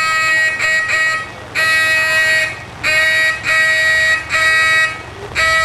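A duck call blown in a calling contest: a run of about seven drawn-out quacks, each roughly half a second long, all at one steady pitch.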